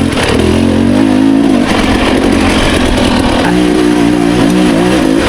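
Dirt bike engine pulling in second gear up a steep trail, its pitch rising and falling as the throttle opens and eases, with wind and tyre noise over it.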